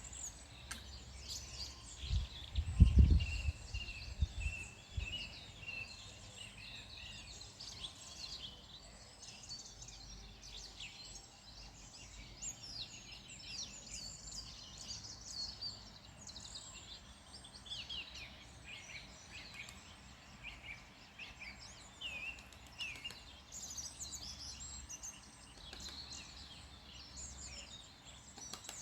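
Many wild birds singing and chirping together in the countryside, with a brief low rumble a couple of seconds in.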